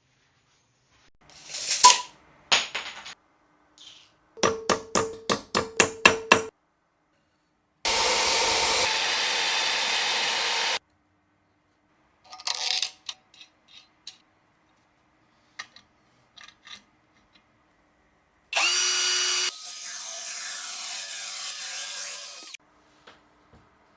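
Workshop tool sounds cut together: a run of about eight quick knocks, a power tool running for about three seconds, scattered clicks, and near the end a motor spinning up with a rising whine and running for about four seconds.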